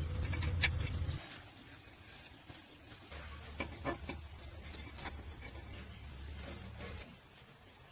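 Steady high-pitched insect chirring, like crickets, with a faint low hum that comes and goes and a few scattered light clicks.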